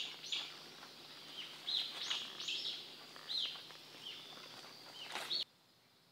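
Small birds chirping: a run of short, high, arching notes repeated every half second or so over faint outdoor hiss. The chirping cuts off suddenly near the end.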